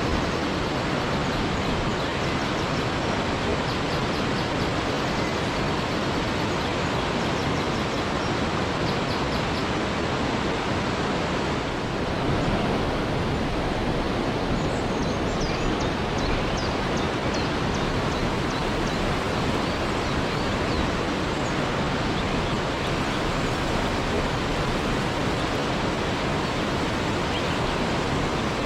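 Waterfall: a steady, unbroken rush of falling water, with faint short high calls now and then over it.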